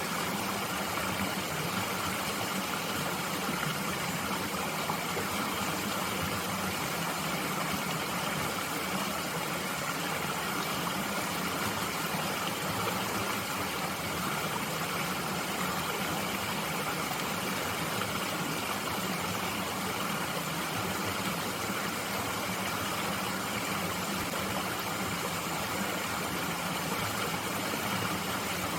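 Mountain stream flowing in a steady, even rush of water, with no separate splashes or other events standing out.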